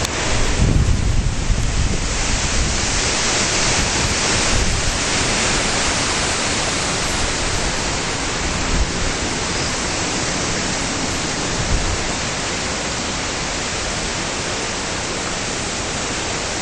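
Strong wind from the remnants of Hurricane Ike rushing and buffeting the microphone as a steady, loud hiss. Heavier low rumbling gusts come in the first couple of seconds, with smaller ones later on.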